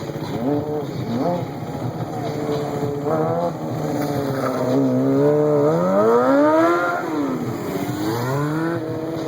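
A stunt vehicle's engine revs up and down again and again. The longest climb in pitch is also the loudest, about six seconds in, and it falls away just before the seventh second. A shorter rev rises near the end.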